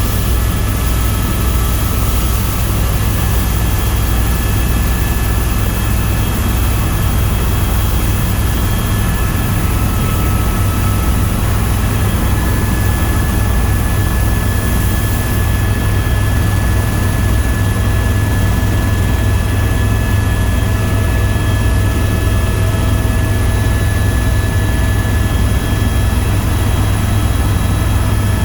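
Tour helicopter in flight: steady, loud turbine and rotor noise with a deep low drone and a few faint steady whines above it.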